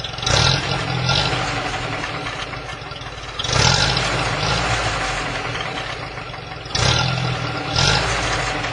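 Exhaust of a UAZ 31512 fitted with a new-pattern system with a muffler and a resonator: the engine idles and is blipped up sharply about five times, falling back to idle after each rev.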